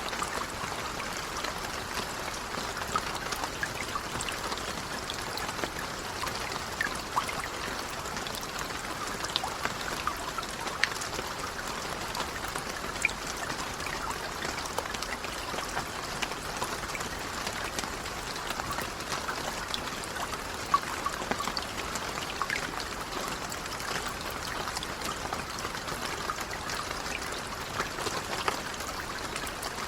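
Light rain falling steadily, a soft hiss of fine drops with scattered individual drips ticking through it.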